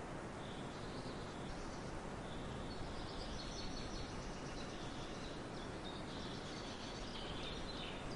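Several small birds chirping and singing in a forest, with many short, high calls that grow busier after about three seconds, over a steady background hiss.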